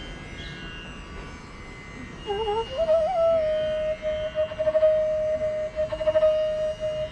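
Hindustani classical instrumental music in raag Chandrakauns. After about two seconds a melody note slides and bends upward, then is held as one long steady note.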